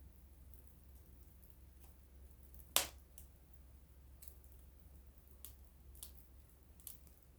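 Small wood fire crackling: scattered faint crackles and one sharp, loud pop about three seconds in.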